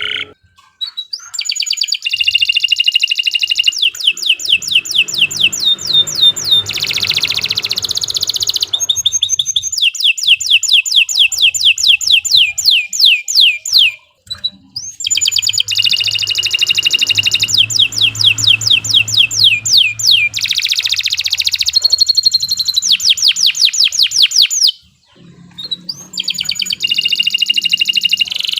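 Domestic canary singing long, fast trills of rapidly repeated falling notes, with brief pauses between song phrases.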